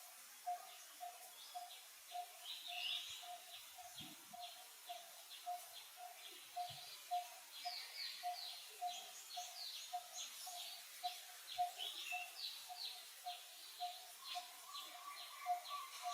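Wild birds chirping outdoors: many short, quick chirps over a steady repeated note about three to four times a second.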